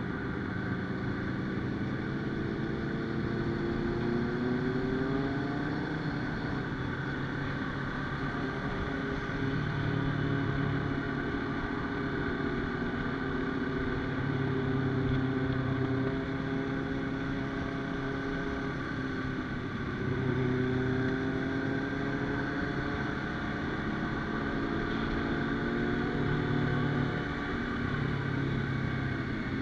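Motorcycle engine running while riding, its pitch climbing a few times as it speeds up and settling back between.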